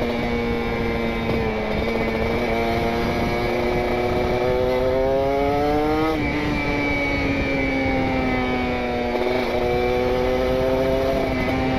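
Kawasaki Ninja RR single-cylinder two-stroke engine with a PWK28 carburettor jetted rich, running through an R9 Neo Mugello carbon exhaust while being ridden. The note climbs steadily under throttle, drops abruptly about six seconds in and sags, then climbs again near the end.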